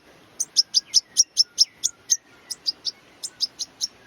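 A hand-reared young European goldfinch chirping: a rapid, even run of short, high-pitched chirps, about four to five a second.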